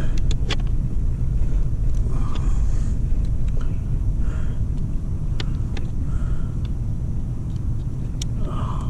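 Small sharp metal clicks and taps as a boat's throttle cable is refitted to its linkage by hand, over a steady low rumble.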